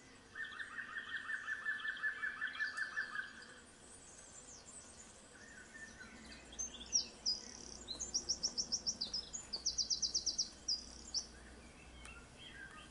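Birds singing: a fast, evenly pulsed trill for about three seconds, then after a pause a series of higher, quicker trilled phrases.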